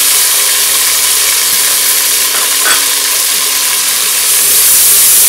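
Chopped tomatoes sizzling in hot oil with fried onions and ginger-garlic paste in an aluminium pressure cooker, stirred with a steel spoon. It is a steady frying hiss that grows louder near the end.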